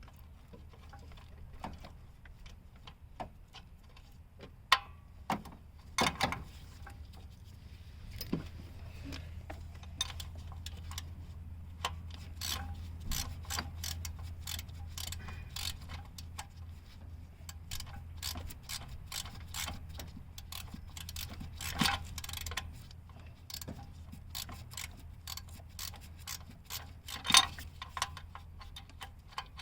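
Ratchet wrench clicking in short, irregular runs while backing a 14mm transmission-mount bolt out a little at a time, with a few louder metal knocks and a steady low hum underneath.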